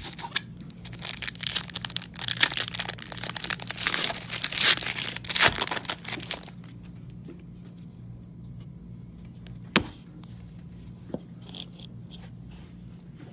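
Trading card pack wrappers being torn open and crinkled for about five seconds, then a single sharp click a few seconds later, over a faint steady low hum.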